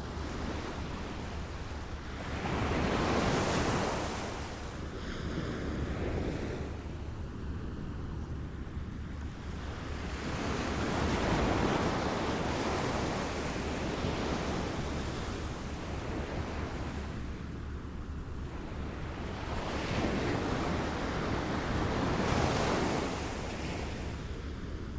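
Small waves lapping and washing in, the water noise swelling and ebbing in slow surges every few seconds, over a steady low rumble.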